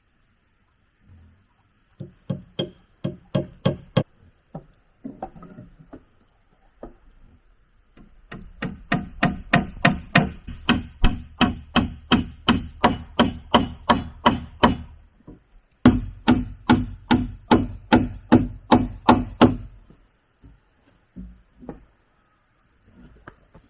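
Rapid, even tool strikes on wood, about four a second, in three runs broken by short pauses, the middle run the longest.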